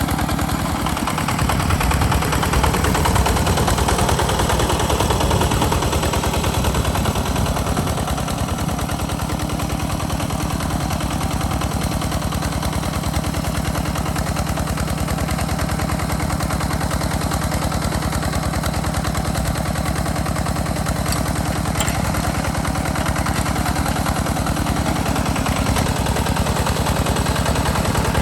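Single-cylinder diesel engine of a two-wheel walking tractor running steadily under plowing load, a rapid, even run of exhaust beats.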